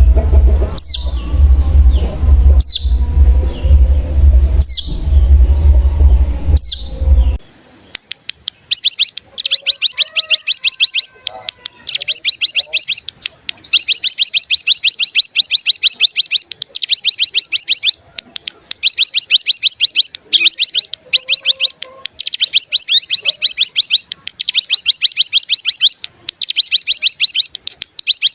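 Ciblek gunung (cigun) song from a lure recording. At first single downward-sweeping call notes come about every two seconds over a low electrical hum. Then, about seven seconds in, the recording changes to rapid rattling trills ('ngebren'), repeated in bursts of a second or two with short pauses.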